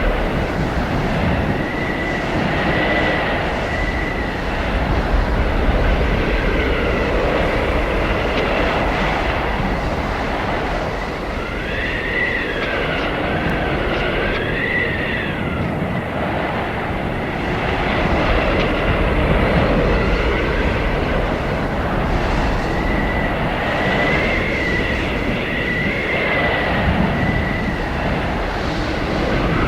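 Arctic blizzard wind blowing steadily with a deep rumble, overlaid by high whistling howls that rise and fall, strongest about halfway through and again near the end.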